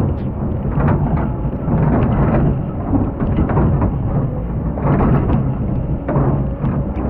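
Excavator's diesel engine running steadily, with repeated rumbling, gritty swells of sand being scooped and poured by the bucket.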